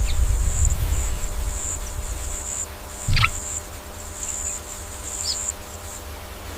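Insects chirring high and steady in pulses over a low rumble, with one short, louder sound about three seconds in.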